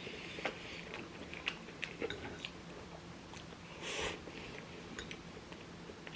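Close-miked chewing and biting of chicken, with small wet mouth clicks and a short louder mouth noise about four seconds in.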